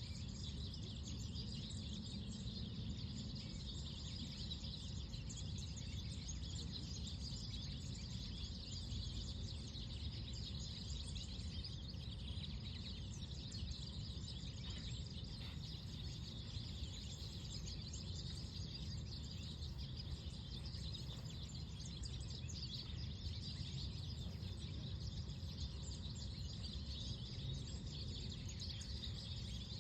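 Many small songbirds chirping and twittering continuously over a steady low rumble of gentle wind.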